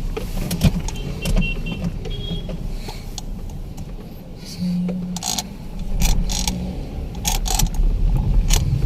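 Hyundai Verna driven over a rough road from inside the cabin: a low road rumble with irregular light knocks and clicks as the wheels hit potholes. The knocking comes from a worn steering column, which the mechanic says only a full column replacement will cure.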